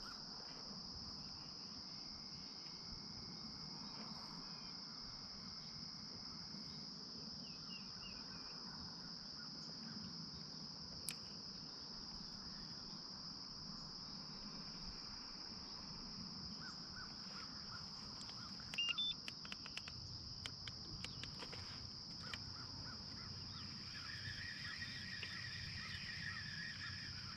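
Crickets chirring steadily in one continuous high-pitched tone, with a few faint bird calls and some small clicks about two-thirds of the way through.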